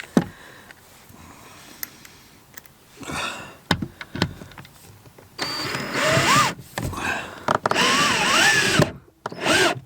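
Power drill-driver driving small screws in several bursts, its motor whine rising and falling in pitch with the trigger. The longest run is in the second half, with a few clicks and knocks before it.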